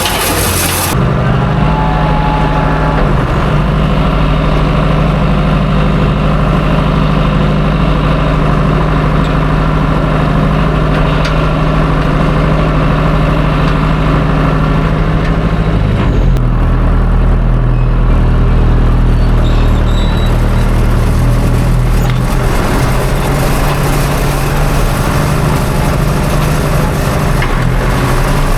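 John Deere 2030 tractor engine running steadily under load while pulling a hay wheel rake; its note shifts a little about halfway through.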